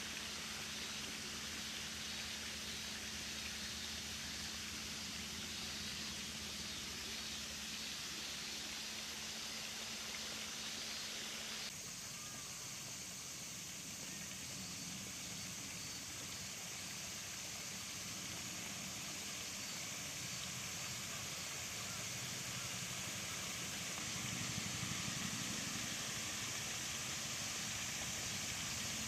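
Steady outdoor background noise: an even hiss with a faint low hum, changing abruptly about twelve seconds in.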